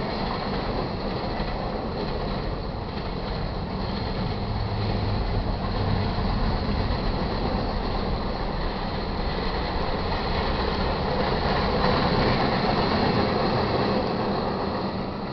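Freight train cars, mostly covered hoppers, rolling past on steel wheels over the rails with a steady running noise. It fades near the end as the last car goes by.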